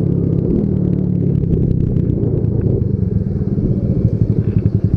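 Small single-cylinder motorcycle engine running under way, with wind rushing past the helmet. About three seconds in it eases off and slows, and its exhaust turns into a rapid, distinct chugging.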